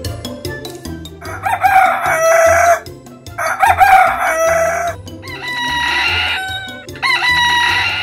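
Roosters crowing cock-a-doodle-doo, four crows in a row of about one to one and a half seconds each, the first two the loudest, over soft background music.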